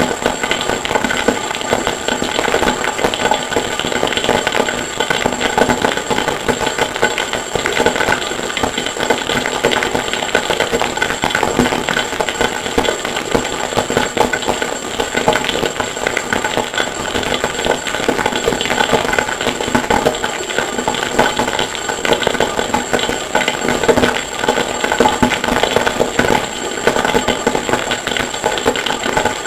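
Harsh noise music: a dense, unbroken clatter of processed, layered hammer-on-anvil forge sounds, with a steady high-pitched whine running under it.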